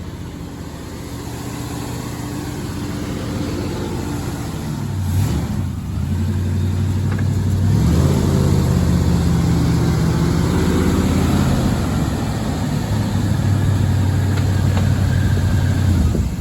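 Chevy 350 V8 in an old 3/4-ton pickup running under load, its engine speed changing a few times, about five and eight seconds in and again near twelve, getting louder as it revs up.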